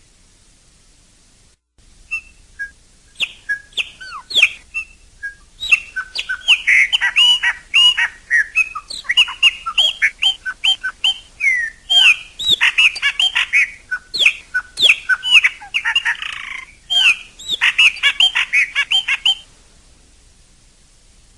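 Chopi blackbird (pássaro-preto) singing: a long stream of quick, varied whistles and chirps with sharp clicks among them. It starts abruptly about two seconds in and stops a couple of seconds before the end.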